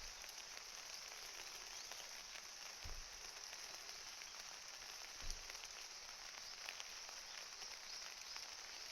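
Rain falling steadily, a fine patter of many small drops, with two soft low thumps about three and five seconds in.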